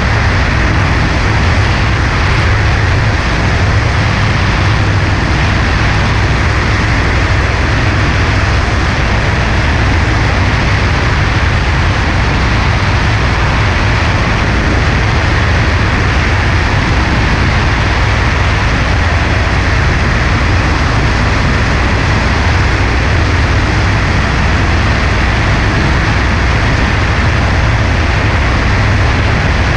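Cessna 140A light airplane in flight: its piston engine and propeller running steadily, mixed with wind rush, with no change in power.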